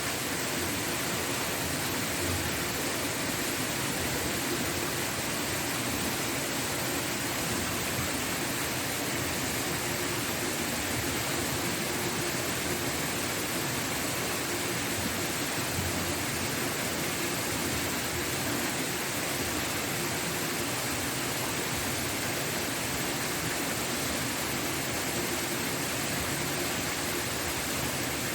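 Waterfall rushing steadily, an even and unbroken hiss of falling water.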